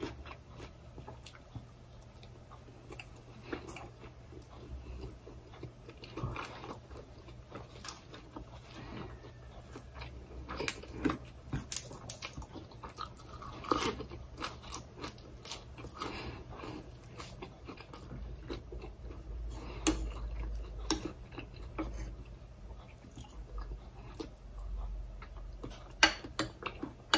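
A person chewing mouthfuls of sticky rice with Thai eggplant dip, with scattered small clicks and mouth noises.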